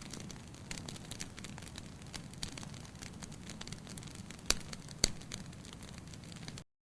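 Wood fire crackling in a fireplace: a steady low hiss with irregular sharp pops, two of them louder about four and a half and five seconds in. It cuts off suddenly near the end.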